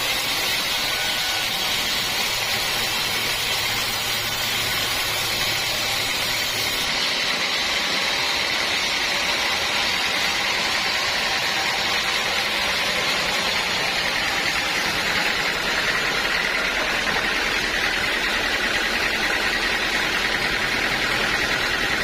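Sawmill saw running steadily, a continuous mechanical noise with a change in its sound about a third of the way in.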